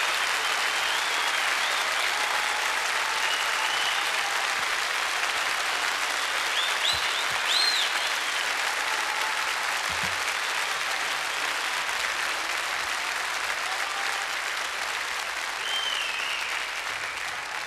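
Audience applauding, a sustained clapping that thins near the end, with a few short rising-and-falling whistles heard over it.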